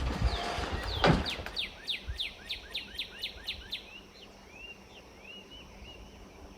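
A songbird singing: a fast run of about a dozen short notes, each falling in pitch, then a few softer chirps. A single thump about a second in.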